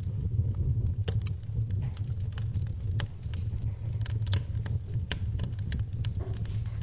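Wood fire in a fireplace crackling, with irregular sharp pops and snaps, several a second, over a steady low rumble.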